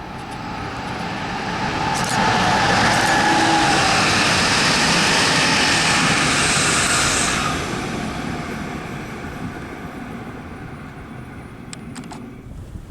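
A train passing by. It builds up over about two seconds, stays loud for about five, then fades.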